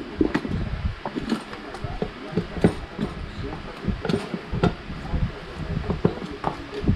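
Irregular clicks, clinks and knocks, a few each second, of hand tools and metal parts being handled while the scooter's front wheel is worked on.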